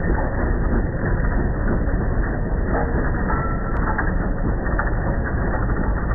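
Tractor running steadily, a loud low rumble with a noisy rattle over it.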